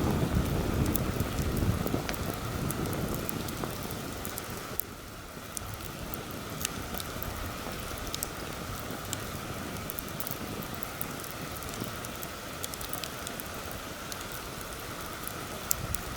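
Campfire crackling and popping in sharp scattered snaps over a steady hiss, with heavy wind buffeting the microphone in low rumbling gusts that are strongest in the first few seconds and then ease off.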